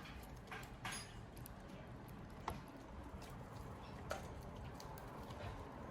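Faint, scattered clicks and scratches, a few seconds apart, over a low steady hum: a budgerigar chick shifting about and scratching in a cage feeder.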